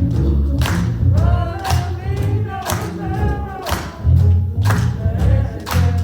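Live gospel music: voices singing over a heavy bass line, with sharp percussion hits about once a second.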